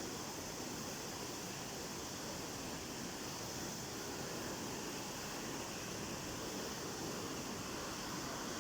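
Stream swollen by heavy rain, its water rushing steadily.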